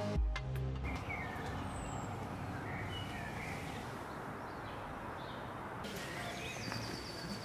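Outdoor ambience: steady background noise with small birds chirping now and then, the chirps clustering about two seconds in and again near the end. Electronic music fades out in the first second.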